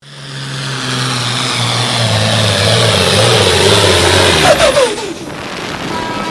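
Super stock 4x4 pulling truck's engine running hard at high revs, loud and building over several seconds. About four and a half seconds in the revs fall away in a falling glide and the engine sound drops off.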